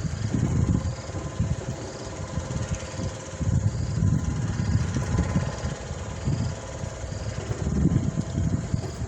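Storm wind buffeting the microphone in gusts that rise and fall, with a faint steady hum underneath.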